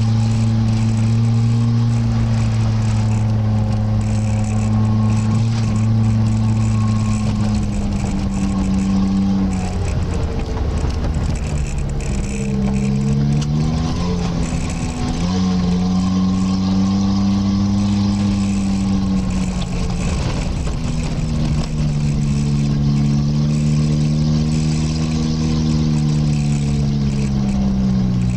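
Off-road vehicle's engine pulling up a gravel mountain track. The engine note holds steady for long stretches, drops and climbs again a few times around the middle as the gears are changed, and eases lower near the end.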